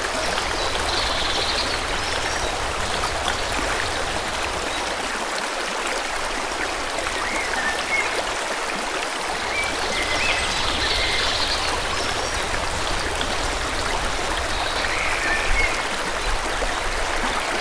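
A stream flowing steadily, with birds chirping briefly every few seconds over the sound of the water.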